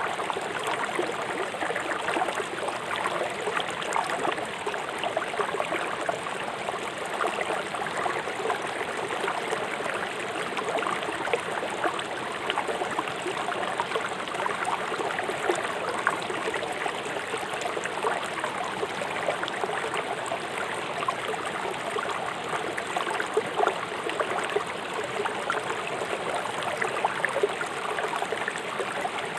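River water rushing fast over rocks, a steady babbling splash without let-up.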